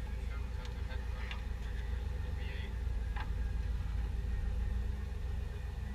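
A steady low mechanical hum, with a few light clicks and taps in the first three seconds.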